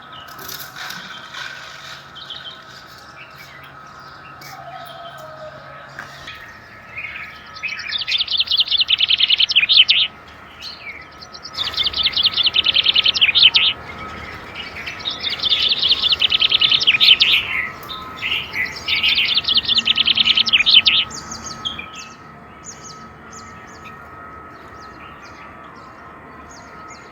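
A songbird singing four bouts of fast, rapidly repeated high notes, each lasting a couple of seconds with short pauses between, over a faint steady background tone.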